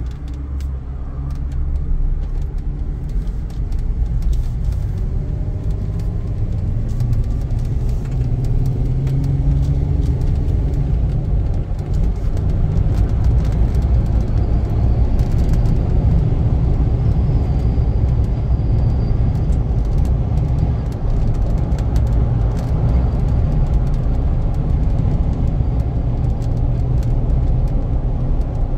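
A car being driven, heard from inside: steady low engine and road rumble, with the engine note climbing over the first ten seconds or so as it gathers speed.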